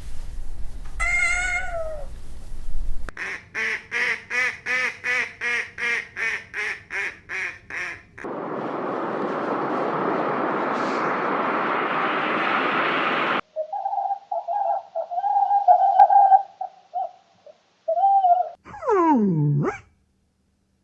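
A string of different animal calls cut one after another: a cat meowing about a second in, then about a dozen quick repeated calls, a few seconds of steady rushing noise, more short broken calls, and one falling call near the end.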